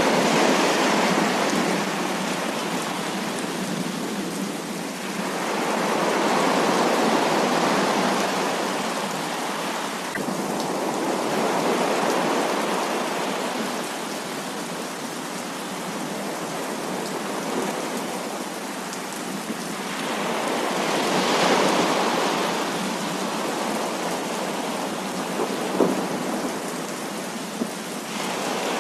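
Heavy rain pouring steadily, its hiss swelling and easing every few seconds, with a couple of short sharp ticks like drips near the end.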